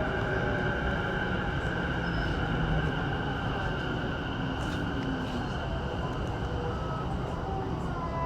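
Running noise of a Saikyo Line electric commuter train heard from inside the car: a steady rumble of wheels on rail with motor whine tones slowly falling in pitch as the train slows for a station.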